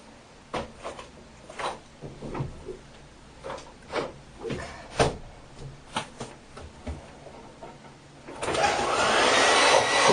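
A few scattered light knocks and handling clicks, then about eight seconds in a hair dryer switches on and runs with a loud, steady blowing noise. The dryer has been packed with baby powder, which it blows out.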